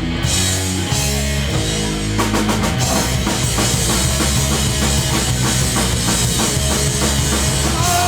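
Hardcore punk band playing live: distorted guitar and bass chords over drums, breaking into a fast, dense drum beat about two seconds in.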